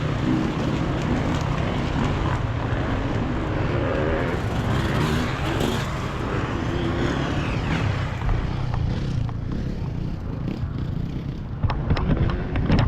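Enduro motorcycle engines running, with the pitch sweeping as a bike goes by, and a few sharp clicks near the end.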